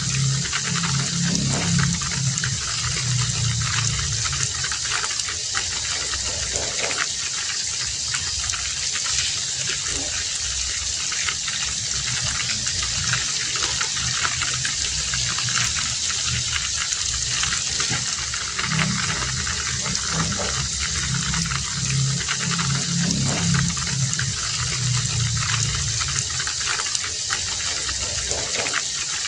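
Heavy rain falling steadily in a dense, even hiss, with a low rumble that swells and fades twice.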